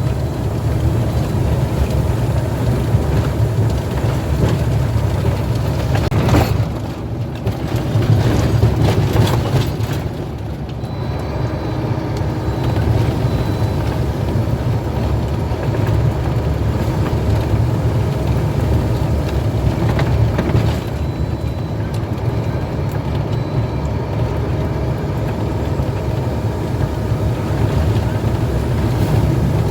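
Truck on the road: steady low engine and road rumble.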